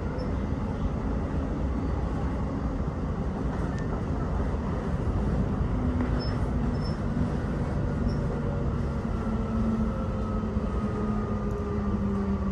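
Electric suburban train running: a steady rail rumble, with a motor whine that comes in about halfway through and slowly falls in pitch.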